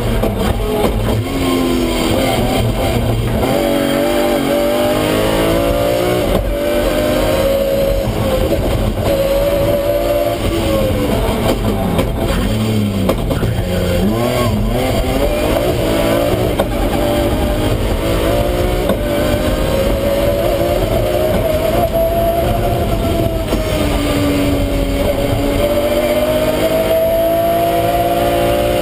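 BMW M3 rally car's engine at race pace, heard from inside the cabin: the engine note climbs again and again as it revs up through the gears and falls away when the driver lifts and brakes for corners, with one deep drop in revs around the middle.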